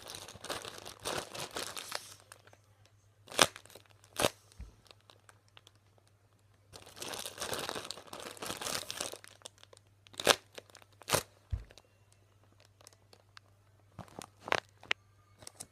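Plastic zip bag stuffed with a scarf crinkling as it is squeezed and handled, in two stretches, with a few sharp clicks in between.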